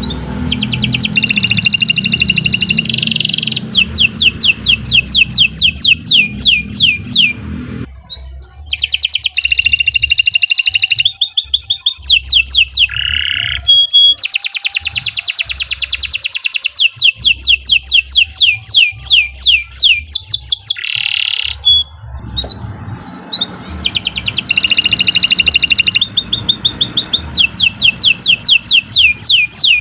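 Domestic canary singing a long, continuous song of fast trills and rows of repeated sweeping notes, with short breaks about a third and three-quarters of the way through.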